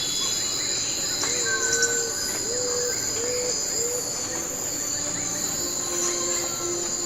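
Steady high-pitched chorus of forest insects, over which a bird gives a series of four short, low, arched notes about a second in, with a few fainter higher whistles.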